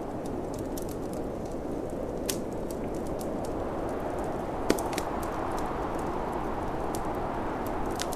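Wood fire crackling, with scattered sharp pops, the loudest a little past the middle, over a steady low rush of snowstorm wind.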